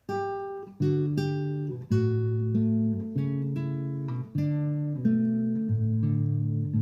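Acoustic guitar music, plucked and strummed notes and chords, starting abruptly.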